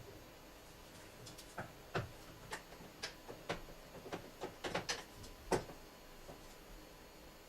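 Scattered light clicks and knocks, about a dozen at irregular intervals, like hand tools and metal or plastic parts being handled and fitted during work on a car.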